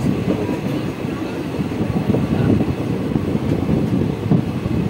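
ICF passenger train coaches running along the track, heard from an open coach door: a steady low rumble of wheels on rails with continuous rattling.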